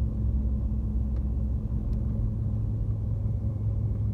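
Steady low engine and road rumble of a large truck heard from inside the cab while driving slowly.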